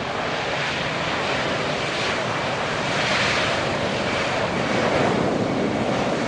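Boeing KC-767 tanker's twin turbofan engines at takeoff power, a broad rushing jet noise that swells about three seconds in and again near the end.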